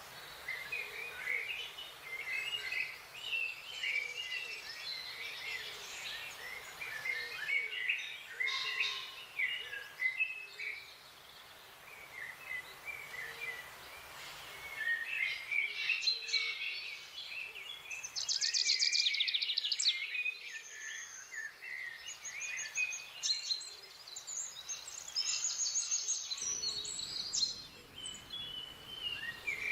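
Several wild birds chirping and singing over a faint steady background hum, with a fast high trill about two-thirds of the way through.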